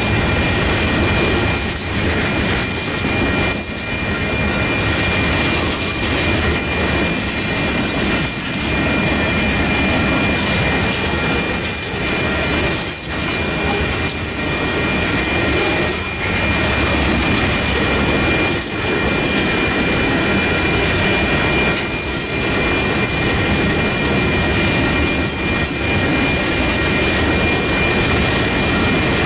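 Freight train's boxcars rolling through a grade crossing: a steady loud rumble of steel wheels on rail with irregular clacks, and a thin steady high-pitched tone running over it.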